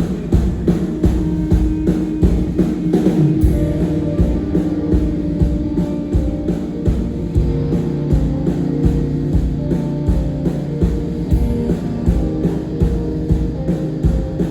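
Rock band playing live: guitar over a drum kit keeping a steady, even beat.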